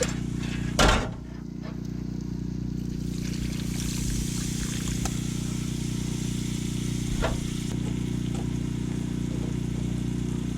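Water being poured into the pot of roux, a hiss that builds a few seconds in and runs for several seconds, with a thump about a second in and a small knock later, over a steady low hum.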